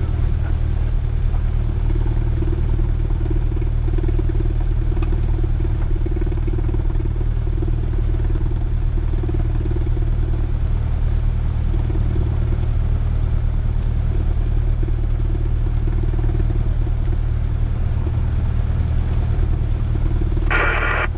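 Cessna 172R's four-cylinder Lycoming engine and propeller droning steadily in flight, heard from inside the cabin. Near the end a brief burst of higher-pitched sound cuts in over the drone.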